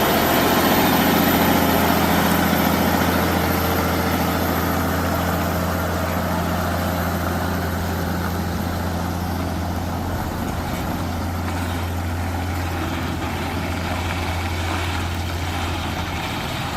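Heavy truck's engine running steadily with a deep, low drone, its loudness easing off slightly over the stretch.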